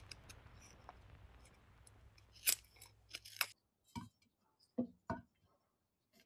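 A faint low hum that cuts off about three and a half seconds in, with a few sharp light clicks and knocks of small objects being handled.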